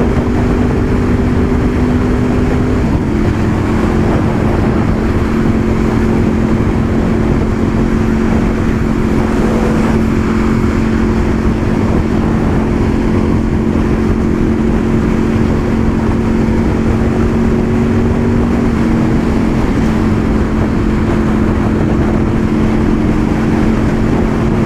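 Honda VFR800 Interceptor's V4 engine running at a steady cruise, its pitch shifting slightly a couple of times, over a constant rush of wind and road noise.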